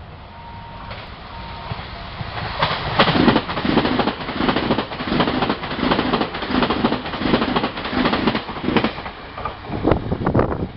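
Train passing through the station, its wheels clattering over the rail joints in an even rhythm of about two beats a second. It builds in about two seconds in and falls away near the end, with no horn sounded.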